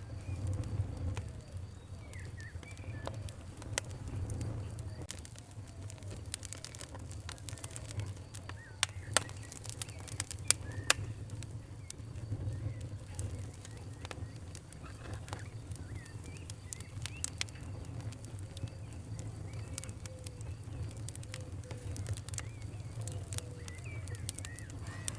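Fire crackling: scattered sharp pops over a low, steady rumble, with the loudest pops coming close together about nine to eleven seconds in. Birds call faintly in the background.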